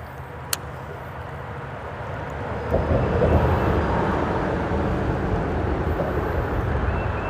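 Traffic rumbling on the freeway bridge overhead, swelling sharply about three seconds in as a vehicle passes over, then slowly easing off. A single sharp click near the start.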